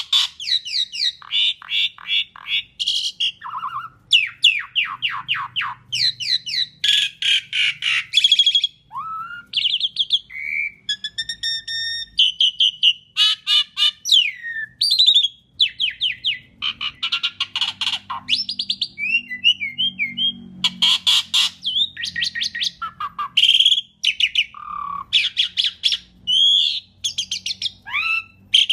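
Asian pied starling (jalak suren) singing a long, varied song: fast rattling series of repeated notes, whistled rising and falling glides and harsh squawks, delivered in quick phrases with only brief pauses.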